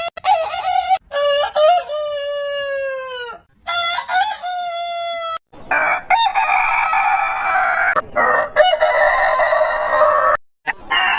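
Roosters crowing, several crows in a row cut one after another. The first crows are clear and ringing, one drawn out and dropping in pitch at its end. About halfway in comes a longer, rougher, raspier crow.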